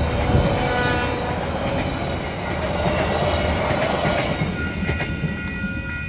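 Passenger carriages rolling past: a steady rumble and clatter of steel wheels on rail, with some wheel squeal. The rumble fades about four to five seconds in as the last carriage clears, leaving a steady high ringing from the level-crossing bells.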